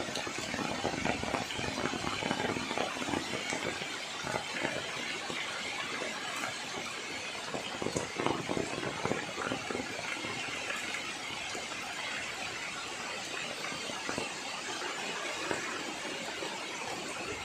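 Heavy rain pouring steadily onto dense trees and broad leaves: an even, unbroken hiss.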